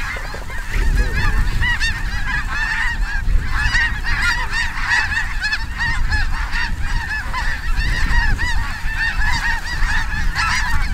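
A large flock of snow geese calling continuously overhead, a dense chorus of many overlapping short, high honks, with a low rumble of wind underneath.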